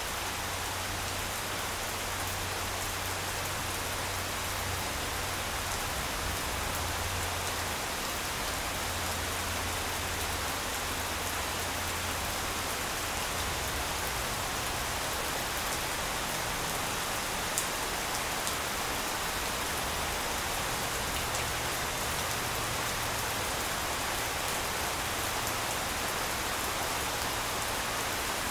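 Steady rain falling on a grass lawn, an even hiss of drops, with one sharper tick of a near drop a little past halfway. A low rumble runs underneath, strongest in the first half.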